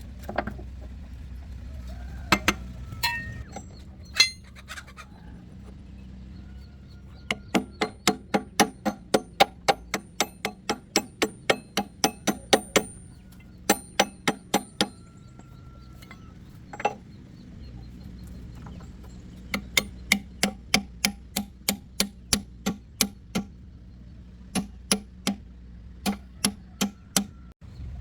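Repeated hammer blows on metal, struck in steady runs of about three a second, with a few scattered strikes early on and pauses between the runs.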